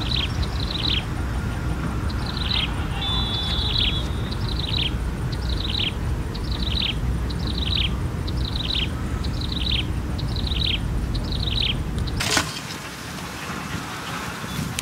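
A bird calling, one short high falling note repeated steadily about every two-thirds of a second, over a steady low rumble. The calls and the rumble both stop about twelve seconds in.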